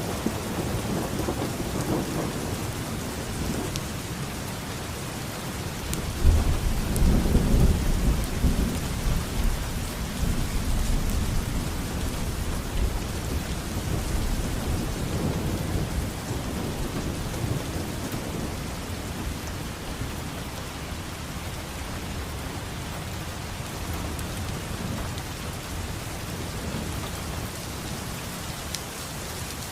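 Steady rain falling, with a rolling rumble of thunder that swells about six seconds in and slowly fades over the following ten seconds.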